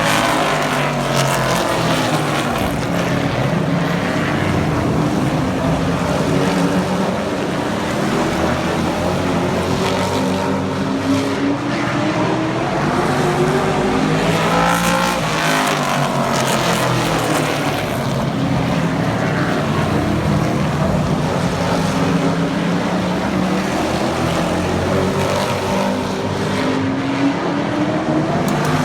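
Pack of super trucks racing around a short oval, several engines running hard at once. Their pitch swells and falls as the field sweeps past, about every 14 seconds.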